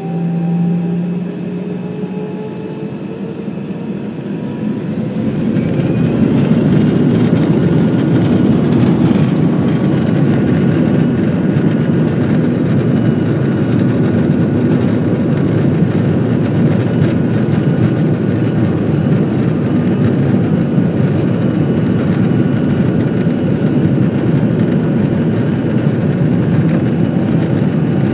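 Airbus A320 jet engines spooling up to takeoff thrust, heard from inside the cabin: a whine rises in pitch over the first few seconds, then the sound grows louder about five seconds in and holds steady through the takeoff roll.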